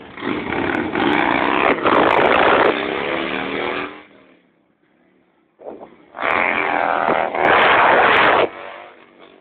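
Motorcycle engines, heard in two loud stretches: one lasting about four seconds, then after a short lull another of about two seconds, with the engine pitch gliding.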